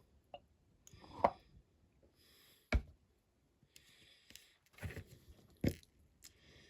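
Light handling sounds of fitting a small rivet into a diecast model's base: a few sharp clicks of small metal parts and tools, with brief scraping rubs between them.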